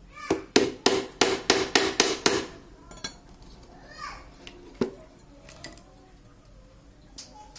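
Hammer driving nails into wood: about eight quick strikes, roughly three a second, then a pause with a single knock later on.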